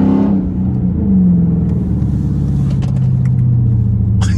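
Straight-piped 2012 Dodge Charger R/T's 5.7-litre Hemi V8 exhaust, loud: the revs drop as the throttle is lifted just after the start, a short blip about a second in, then a steady drone slowly falling in pitch as the car rolls on.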